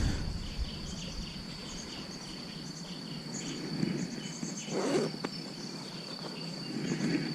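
Insects trilling in one steady high tone, with faint low rustling and handling noise underneath.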